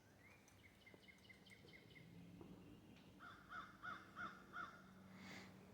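Faint birds calling: a quick run of short high chirps, then five evenly spaced calls at about three a second, over a faint steady low hum.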